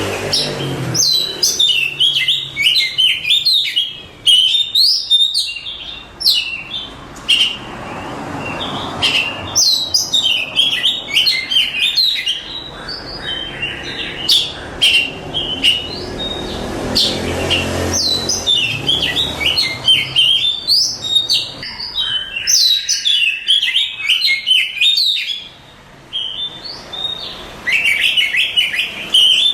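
Oriental magpie-robin (kacer) singing in fast, varied phrases of sweeping whistles, chirps and trills, with short pauses between the bursts.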